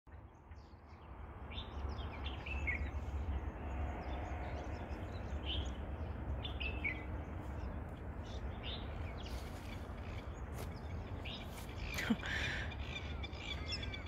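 Wild birds chirping in short, scattered calls, several of them falling in pitch, over a steady low rumble.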